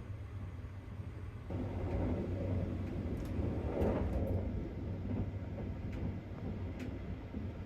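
Running noise of a sleeper train heard from on board: a steady low rumble that grows louder about a second and a half in, with a few faint ticks.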